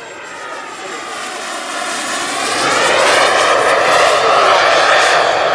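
Radio-controlled model jet's JetCat turbine engine passing in flight, a jet whine and rush that grows steadily louder as the plane comes closer, then cuts off suddenly near the end.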